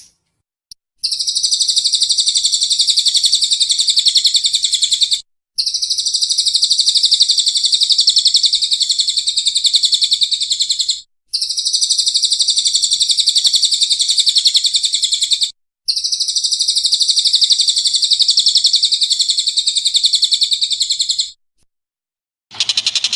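High, very rapid buzzy trill from a bird-call recording used as masteran training audio, sounded four times, each trill about four to five seconds long with short breaks between.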